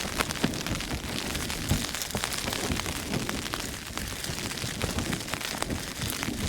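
Wind and rain on a Hilleberg tent, heard from inside: a steady hiss of rain with many sharp drop taps on the fabric, over a low, unsteady rumble of gusts flapping the tent.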